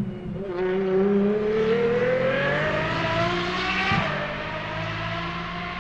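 Apollo Intensa Emozione's 6.3-litre naturally aspirated V12 accelerating hard, its note climbing steadily in pitch, then dropping sharply at an upshift about four seconds in and carrying on at a steadier pitch.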